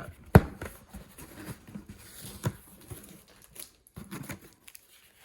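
Cardboard box being opened by hand, flaps and packing material rustling, with a sharp knock about half a second in and a smaller one a couple of seconds later.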